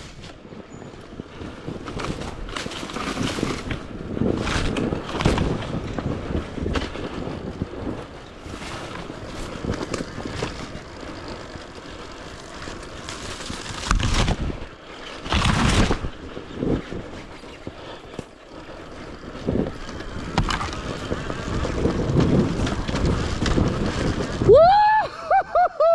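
Dirt bike engine revving unevenly as the bike climbs a steep hill, with wind buffeting the microphone. A whooping shout comes near the end.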